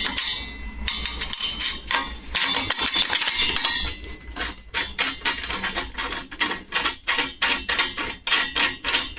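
Repeated sharp metal clinks, knocks and scrapes of hand tools, bolts and washers being worked on a steel stand, coming quicker and more regularly in the second half.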